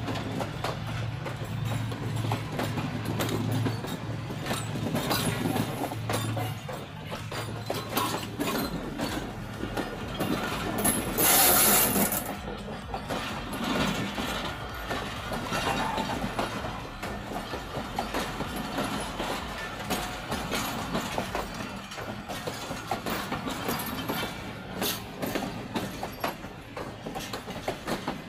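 Train moving on the tracks, its wheels clacking with many sharp ticks and a short loud hiss about eleven seconds in. A low steady hum fades out after about six seconds.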